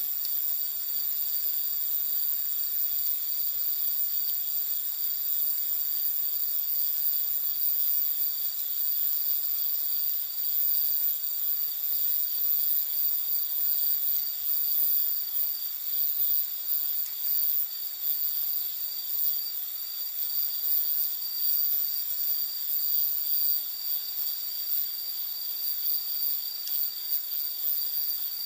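A chorus of insects trilling steadily at several high pitches.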